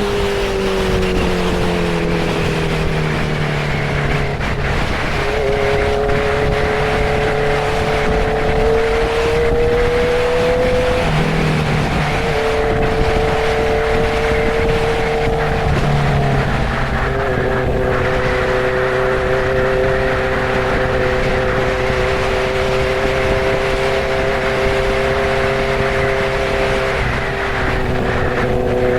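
Honda CB650R's inline-four engine running at cruising speed under steady wind rush. Its note sags over the first few seconds, rises again, dips briefly about eleven seconds in and steps down to a lower steady pitch around the sixteen-second mark, as at gear changes, then holds even.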